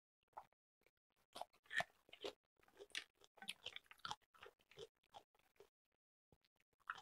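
Close-miked chewing of a mouthful of ulmyeon noodles: soft, irregular wet mouth clicks and smacks, which die away about a second before the end.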